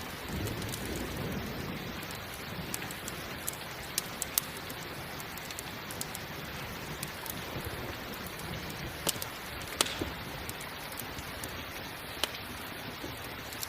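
Steady rain with occasional sharp pops and crackles from a wood campfire, about five of them standing out, and a low rumble in the first two seconds.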